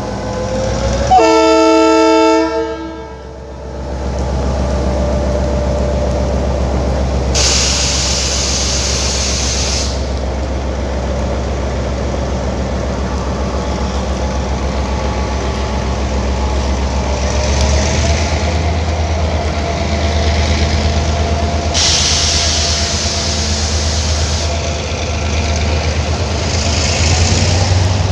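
Passenger train's diesel locomotive sounding its horn once for about two seconds, then the train rolling past with a steady low rumble. Two stretches of hiss come over the rumble, about eight seconds in and again past twenty seconds.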